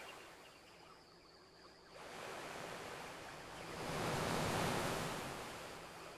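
Ocean waves washing onto a beach: a swell builds from about two seconds in, peaks, then recedes near the end.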